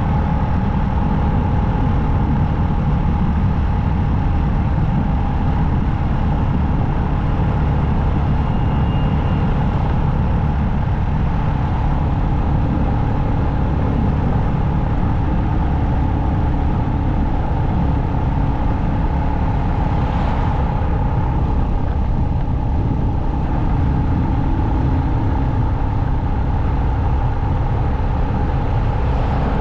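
Motorcycle engine running steadily at cruising speed, with wind and road noise, heard from the rider's position. A brief rush of higher noise comes about two-thirds of the way through.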